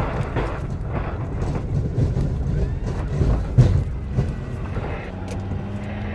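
Ford F-250 6.7L Powerstroke diesel pickup pushing snow with a plow blade. Under the low engine rumble comes a string of knocks and clunks, the loudest about three and a half seconds in, as the blade's live cutting edge bounces and catches on the driveway. A steady low hum sets in about five seconds in.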